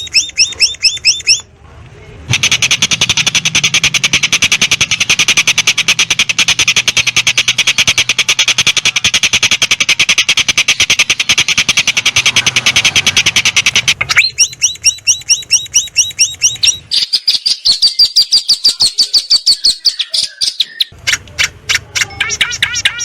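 Long-tailed shrike (cendet) singing harsh, rapid-fire notes: an unbroken rattle for about twelve seconds, then quick repeated chirps and a run of rising-and-falling whistled notes.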